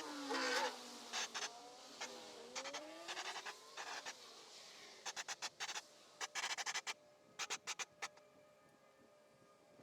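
Repeated short bursts of rapid scratching strokes, dying away in the last couple of seconds, with faint gliding tones underneath.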